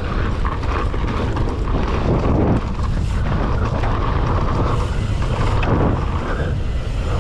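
Loud, steady wind noise on the microphone of a mountain bike riding fast downhill through a dirt jump line, with the tyres rumbling on the dirt.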